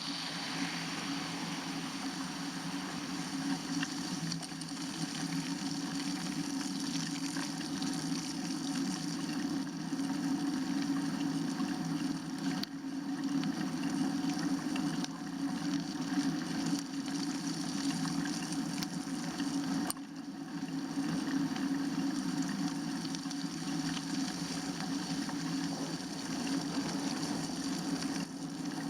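Steady rushing noise of a bicycle ride on snowy, slushy roads: tyres and wind on the microphone, with no distinct events.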